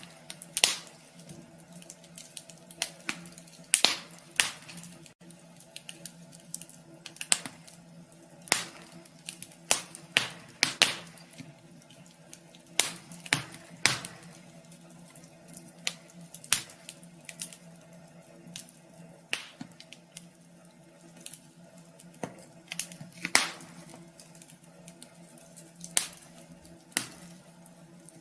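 Wood fire crackling in a wood stove: irregular sharp pops and snaps, a few loud ones among many small ticks, over a faint steady hum.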